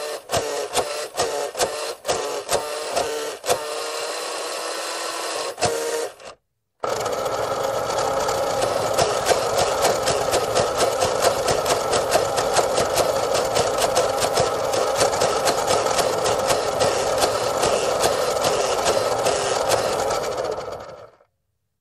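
Remote-controlled toy fire truck held upside down with its wheels spinning freely: its small electric motor and plastic gears whine and buzz in short stop-start bursts for about six seconds. After a brief pause they run steadily for about fourteen seconds, then wind down.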